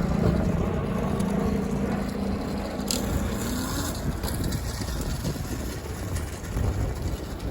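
Wind rushing over the microphone while riding a bike, with a low hum that rises in pitch about three seconds in. A single sharp click comes at about the same point.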